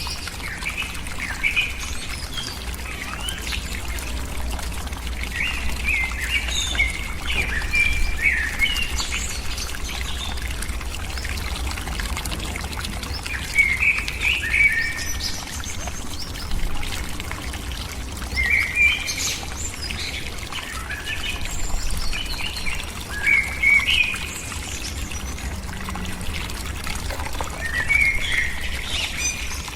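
Birds chirping in short clusters every few seconds over a steady pouring, rushing water noise.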